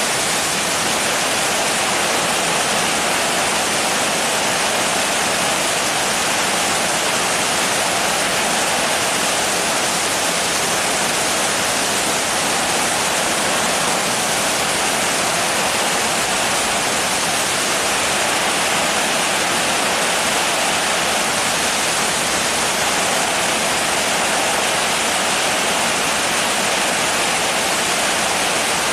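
Steady rain falling as an even hiss, with no single drops or other sounds standing out.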